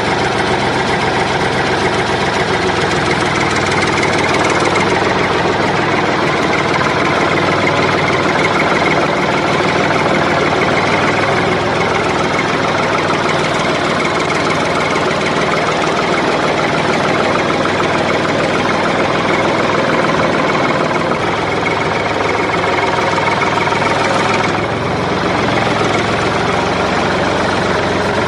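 An engine running steadily at idle, without a break.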